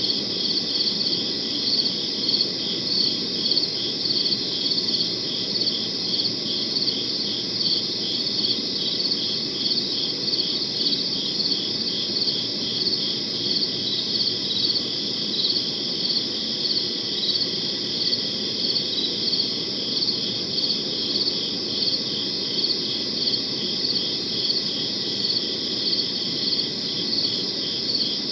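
Crickets chirping steadily in a night chorus, high-pitched pulses repeating evenly over a soft background hiss.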